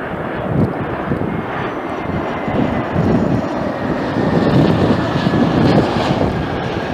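Airliner engines passing close by: a steady, loud rush with a faint whine that falls slowly in pitch. Gusts of wind buffet the microphone.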